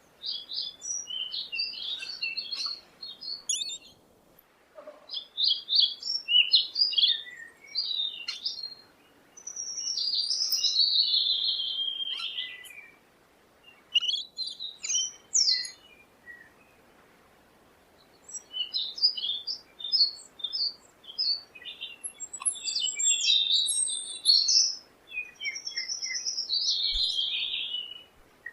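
A songbird singing: runs of quick, high chirps and warbled phrases, broken by short pauses, the longest about two seconds a little past the middle.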